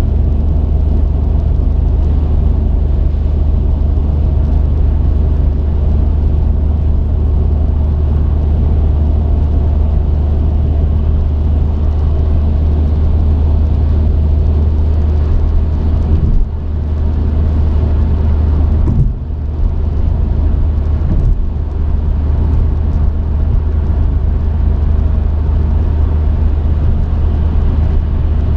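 Truck engine and road noise heard from the cab: a steady low drone, with brief dips in loudness about 16, 19 and 21 seconds in.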